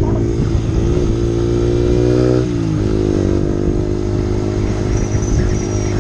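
Motorcycle engine running under way at a steady pitch. Its pitch drops sharply about two and a half seconds in, like a gear change, then rises again and holds.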